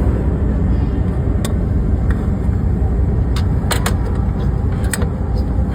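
2004 Hyundai Sonata's engine running steadily, with a few sharp clicks over it.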